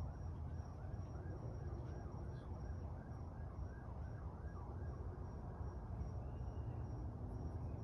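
Distant emergency-vehicle siren on a fast rise-and-fall yelp, about three sweeps a second, fading out about five seconds in, over a steady low rumble.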